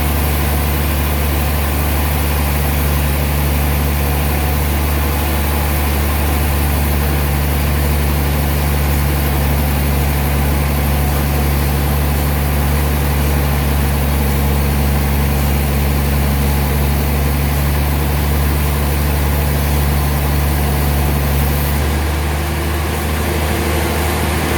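Sawmill machinery running: a loud, steady, low engine hum that shifts slightly near the end.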